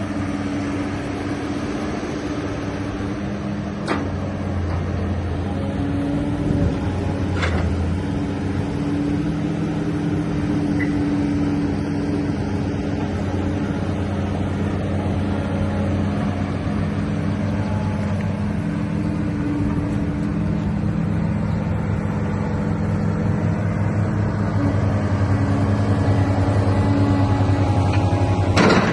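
Caterpillar 320CL excavator's diesel engine running steadily, growing slightly louder toward the end, with a few sharp clanks, the loudest just before the end.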